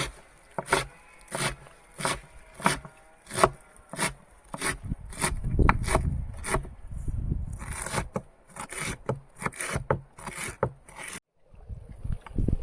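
Chopping strokes on wood, steady at about three every two seconds, then quicker and uneven near the end before cutting off suddenly.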